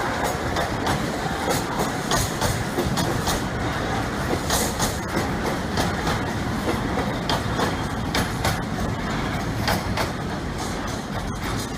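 A train rolling past at steady speed, its wheels clicking irregularly over rail joints and pointwork over a continuous rumble. The sound eases slightly near the end.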